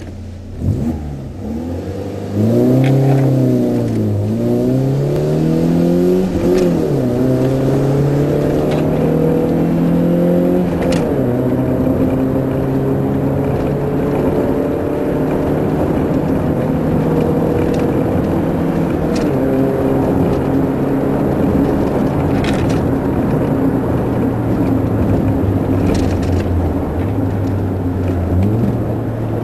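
A Corsa B's engine and exhaust fitted with a 4-2-1 exhaust manifold, heard from inside the cabin while the car accelerates hard. The revs climb and fall several times in the first ten seconds or so, then hold and rise slowly, and drop again near the end, with a few brief knocks along the way.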